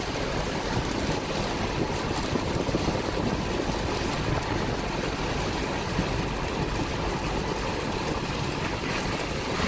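A truck driving through floodwater over the road, heard from inside the cab: a steady rushing and washing of water against the wheels and underbody over the low sound of the vehicle.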